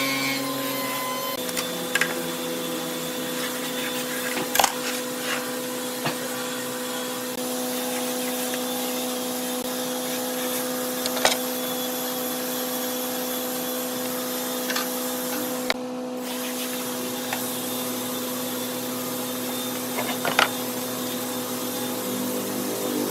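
A woodworking machine's motor running steadily with a constant hum and hiss, broken by several sharp knocks or clicks.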